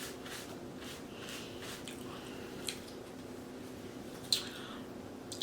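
A person eating seafood boil close to the microphone: quiet chewing with a few wet mouth smacks, one about halfway through, one later on, and one at the very end, over a low steady hum.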